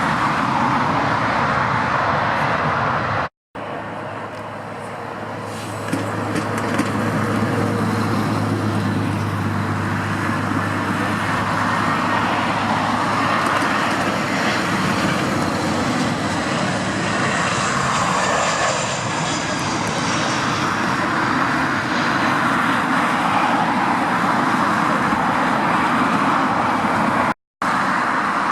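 Airbus A320 jet airliner coming in to land: a steady rushing jet-engine noise, with a faint high whine around two-thirds through. The sound drops out abruptly twice, for a split second each, at edits between landings.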